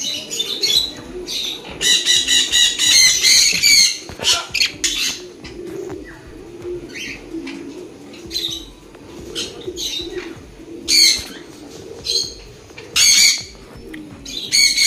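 Birds calling: a quick run of sharp squawks, then single squawks about once a second, over a low cooing.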